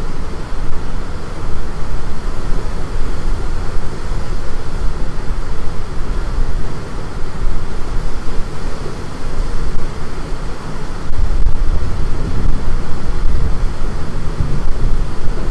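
Strong storm wind gusting across the microphone as a deep, uneven rumble, growing louder from about eleven seconds in.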